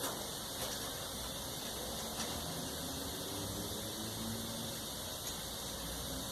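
A few faint clicks and knocks from parts of a clothes dryer being handled during disassembly, over a steady background hiss.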